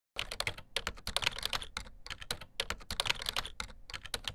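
Rapid, irregular clatter of light clicks and taps, like fast typing on a keyboard, starting suddenly and stopping just before the end: a scuttling sound effect for the many-legged puppet creature walking.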